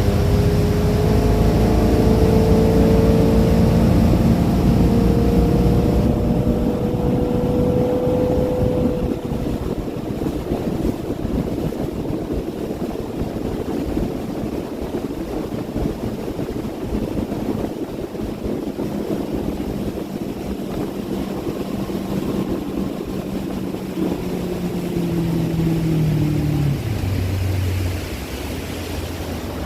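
Motorboat engine running under way over a steady rush of water and wind; its pitch wavers early on and drops near the end as the engine slows.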